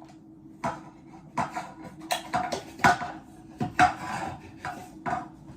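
Hard objects being handled: about a dozen irregular knocks and clinks, some with a short ring, over a faint steady hum.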